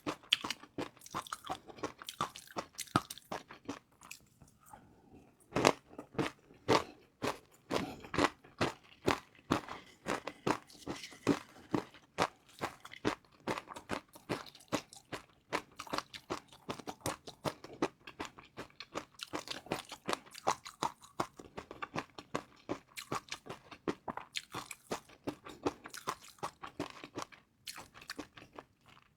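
Close-miked crunching and chewing of crispy fried noodles: rapid, dense crackly crunches with each bite and chew, easing off briefly about four seconds in before picking up again.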